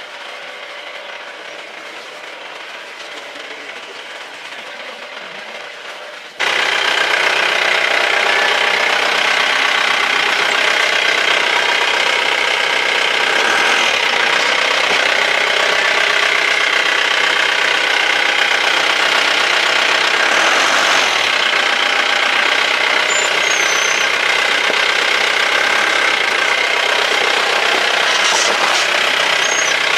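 A vehicle engine running steadily, heard from inside the vehicle. About six seconds in the sound abruptly jumps much louder.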